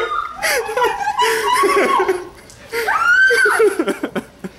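People laughing, with bursts of giggling and chuckling, and a high-pitched cry about three seconds in.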